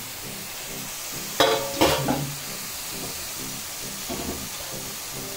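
Chicken pieces sizzling in hot oil with onion, garlic, red masala and turmeric, stirred in the pot. A couple of louder short sounds come about one and a half to two seconds in.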